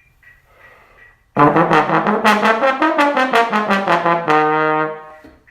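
A brass instrument bursts in loudly about a second and a half in, playing a quick run of short notes, then one held low note that fades out near the end.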